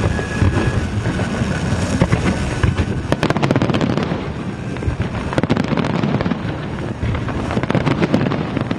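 Aerial fireworks display going off nonstop: a dense rumble of overlapping booms, with a thick burst of sharp crackling a few seconds in.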